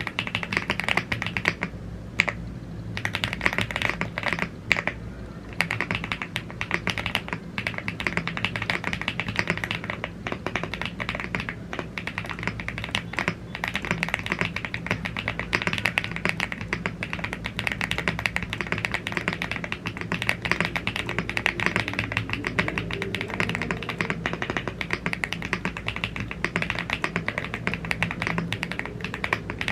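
Typing on a YUNZII AL75, a gasket-mounted aluminium mechanical keyboard with Blue Grey tactile switches and double-shot PBT Cherry-profile keycaps. The key clacks come fast and dense, with short pauses about two and five seconds in.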